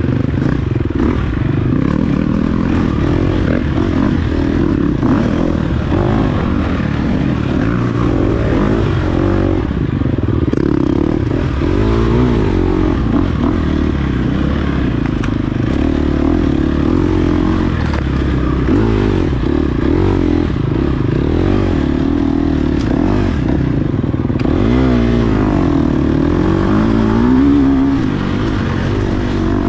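Dirt bike engine running hard through an off-road race, its revs rising and falling again and again, with clattering and scraping from the bike over rough ground.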